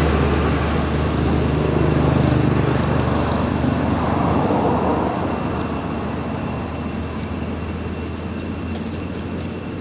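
Motor vehicle traffic: a heavy low engine rumble in the first few seconds that fades away, leaving steady road noise.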